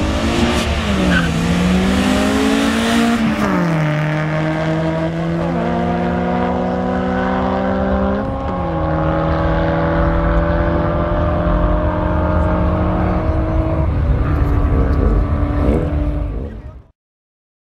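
Car engine at full throttle on a quarter-mile drag run, climbing in pitch and dropping back at each gear change through the first eight seconds, then pulling on in top gear with only a slow rise. The sound cuts off abruptly near the end.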